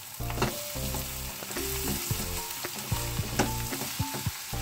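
Bitter gourd and onion sizzling as they fry in a kadai, stirred with a wooden spatula that scrapes and knocks against the pan several times, mixing in the freshly added dry spices.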